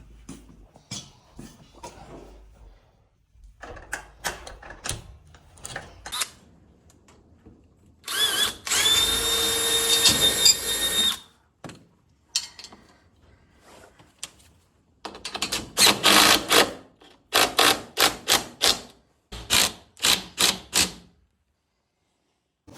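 Power drill run steadily for about three seconds, its pitch rising as it spins up, then triggered in a string of short loud bursts, with scattered knocks and clanks of hardware being handled between the runs.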